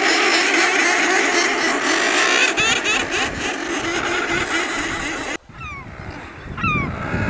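Dense seabird-colony din: many thick-billed murres growling and cackling together on the cliff ledges. About five seconds in it cuts off suddenly to a quieter stretch of single bird calls, each falling in pitch, a couple per second.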